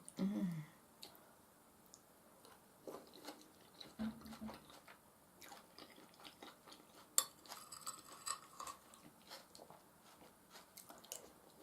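A person eating mashed potatoes and beef stew close to the microphone: soft chewing with many small, wet mouth clicks, faint throughout, with a brief low hum near the start.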